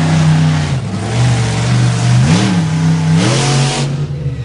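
Monster truck engine revved in short blips. It is held high, drops back about two-thirds of a second in, then rises again for about a second before falling back to a lower run.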